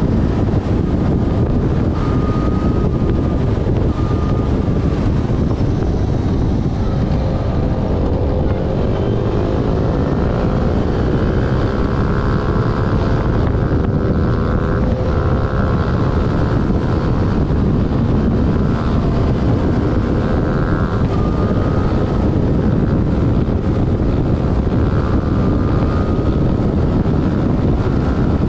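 Heavy wind buffeting on a GoPro mounted on a moving Yamaha Fazer FZ6S, with the bike's inline-four engine running underneath. The engine note climbs in pitch about a quarter of the way through as the bike accelerates, then holds.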